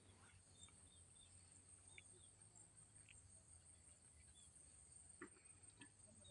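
Near silence with a faint, steady, high-pitched insect chirr in the background and a few faint ticks.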